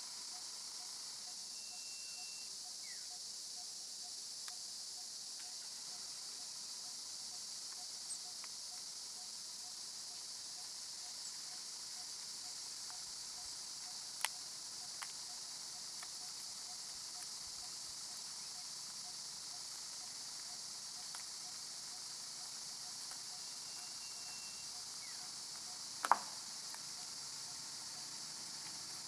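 Steady, high insect chorus of jungle crickets or cicadas, with a faint evenly pulsing call underneath. There are two brief high notes and a few sharp clicks, the loudest near the end.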